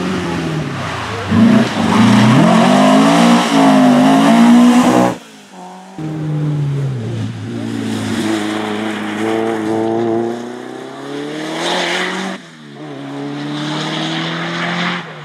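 Rally car engines revving hard and changing gear as they accelerate past, one pass after another, with abrupt breaks about five and twelve seconds in. The engine note rises and falls repeatedly, and there is a brief burst of tyre noise just before the second break.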